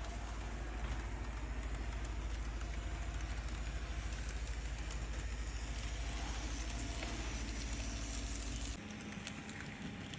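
Model train running on the layout: a steady low rumble with running noise that drops away suddenly about nine seconds in.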